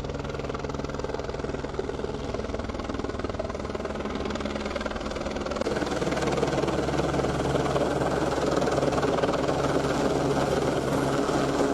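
Helicopter running steadily, with its rotor and engine noise, getting louder about halfway through.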